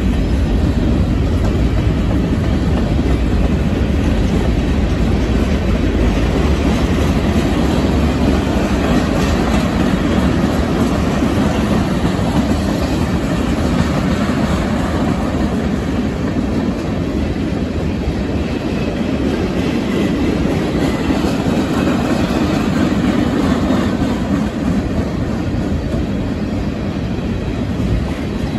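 Freight train cars, covered hoppers and then tank cars, rolling past close by: a loud, steady rumble and clatter of steel wheels on the rails.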